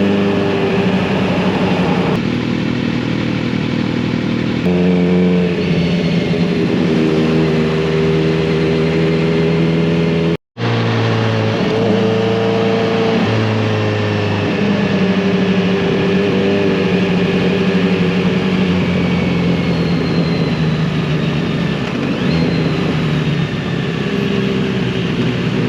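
Kawasaki Z900RS inline-four engine and exhaust under way, running steadily with its pitch stepping up and down several times as throttle and gears change. The sound cuts out completely for a moment about ten seconds in.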